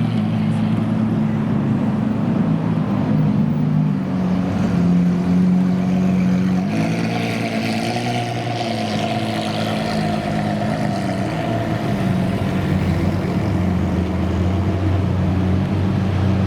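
Supercar engines running at a steady, low idle, a continuous drone whose pitch shifts about seven seconds in.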